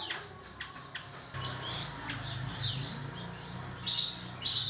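Young bar-winged prinia (ciblek) singing: quick chirps and sweeping notes, then near the end repeated high trilled phrases. A low steady hum runs underneath from about a second in.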